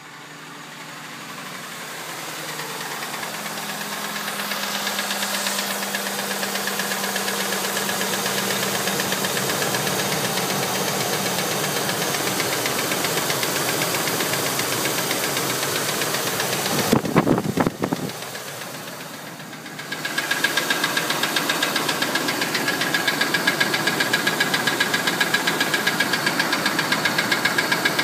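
2002 Ford Expedition's 4.6-litre V8 idling with a fast, regular tick or knock, which the owner takes for a possible rod knock or valve tap. It grows louder over the first few seconds, there are a few loud bumps a little past the middle, and after a brief dip the ticking comes back sharper and closer, with a thin steady whine over it.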